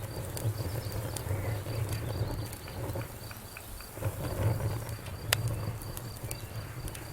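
Wood fire burning in a fireplace: a steady low rumble of flame with scattered crackles and small pops, and one sharp pop about five seconds in.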